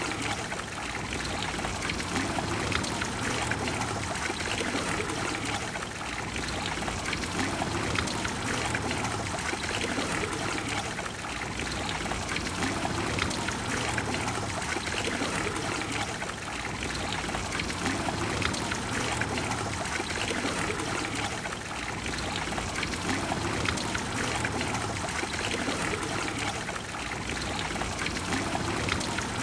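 Water of the Trevi Fountain flowing and splashing in a steady, even rush.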